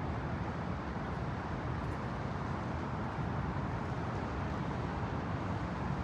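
Steady low rumble of outdoor city traffic, even throughout with no distinct events.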